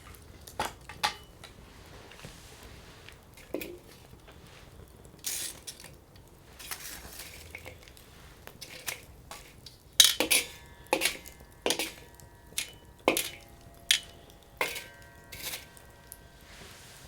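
Campfire in a steel Coleman Fire Disk: scattered sharp clicks and knocks, a dozen or so, bunching up from about ten seconds in, several of them leaving a short metallic ringing.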